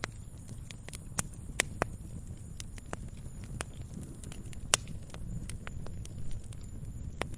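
Wood fire in a fireplace crackling: irregular sharp pops and snaps over a low steady rumble of the burning fire, the loudest pop a little under five seconds in.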